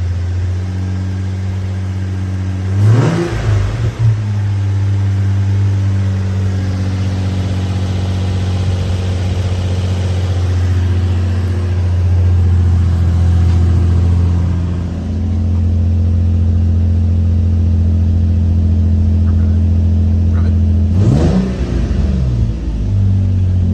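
Nissan 350Z's 3.5-litre VQ35DE RevUp V6 idling steadily on a cold start, blipped up in revs and back down twice, about three seconds in and near the end.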